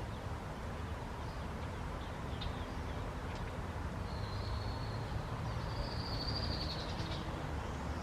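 Outdoor ambience with a steady low rumble and faint, high bird calls: a few short chirps, then two longer whistled notes in the second half.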